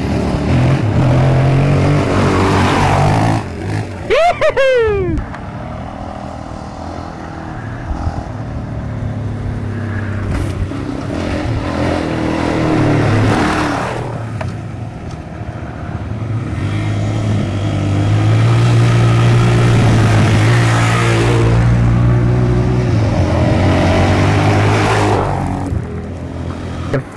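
Dirt bike engine running under changing throttle, its pitch rising and falling. About four seconds in, a short whine sweeps quickly downward.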